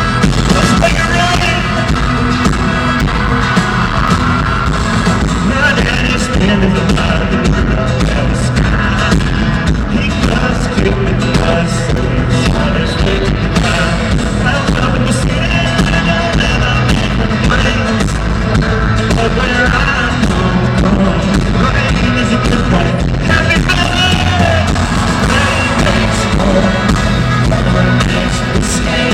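Live country band playing loudly and steadily through a large concert sound system, with a lead vocal singing over it.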